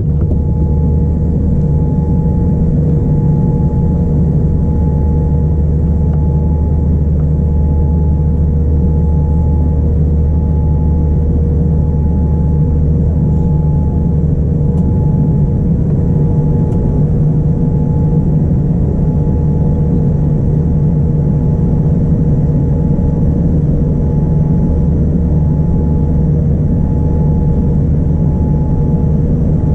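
Boeing 787-9 Dreamliner's jet engines and airflow heard inside the cabin: a loud, steady, deep rumble with a constant hum of two tones, unchanging throughout.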